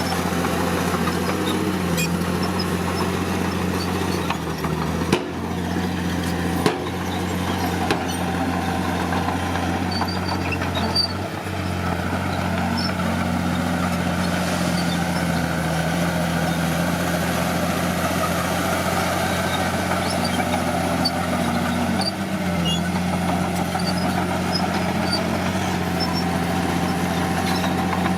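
Heavy earthmoving machine's diesel engine running steadily, its pitch dipping and rising slightly with load. Two sharp knocks come about 5 and 7 seconds in.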